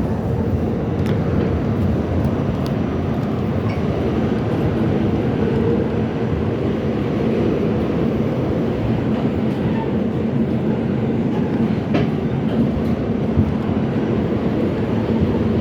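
R68 New York City Subway car running steadily along the track, a continuous low, rolling noise with a few faint sharp clicks from the wheels and rails.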